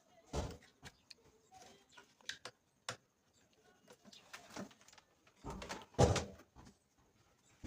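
Handling noises while reassembling a speaker by hand: scattered light clicks and taps, with a louder knock about half a second in and a heavier bump around six seconds in.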